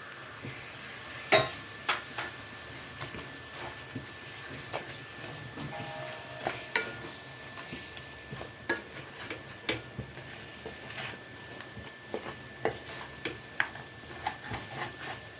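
Curry of chicken pieces with spices and freshly added tomatoes sizzling in a pan while a spoon stirs it, clicking and scraping against the pan at irregular moments.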